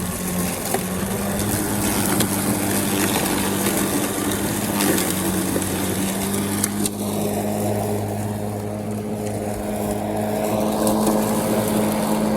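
Snapper 82-volt battery lawn mower running steadily, its motor and blade giving an even hum while cutting thick grass. The rushing cutting noise over the hum eases about halfway through.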